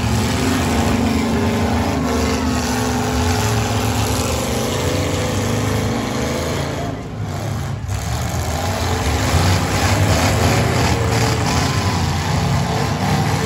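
Several demolition derby cars' engines running loud together, revving up and down as the cars drive and shove each other on the dirt arena floor.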